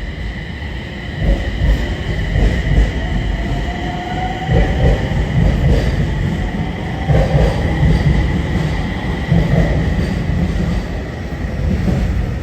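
Electric passenger train moving along the station track with a steady low rumble, a steady high tone above it, and a thin wheel squeal that rises and fades around the middle.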